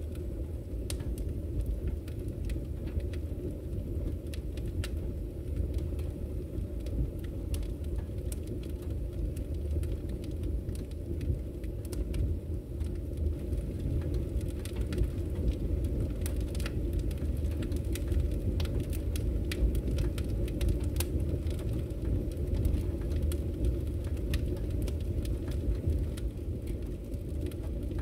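Wood fire in a fireplace crackling: frequent short, sharp pops and snaps over a steady low rumble of the flames.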